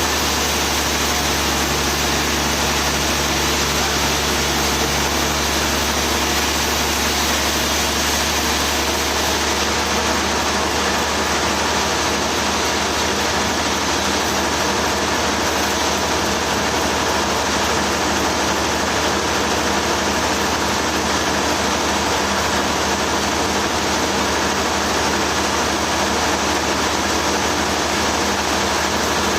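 Sawmill machinery engine running steadily with a constant low hum and no change in speed.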